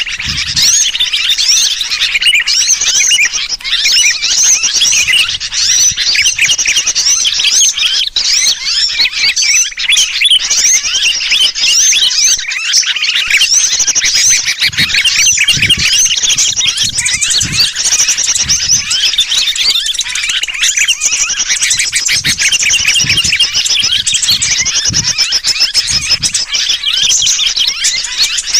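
Bird-lure recording: a dense, continuous chorus of small birds chirping rapidly and excitedly, mixed with the distress calls of a trapped sooty-headed bulbul (kutilang), meant to draw wild birds in.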